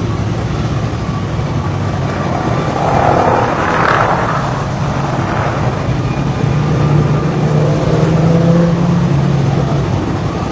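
Steady engine noise with a low hum, swelling louder for a moment about three to four seconds in.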